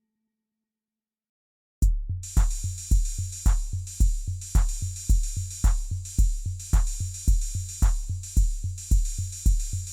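Silence for about two seconds, then a song's programmed drum-machine beat starts abruptly: a deep kick drum about twice a second with crisp hi-hat ticks on top, no vocals yet.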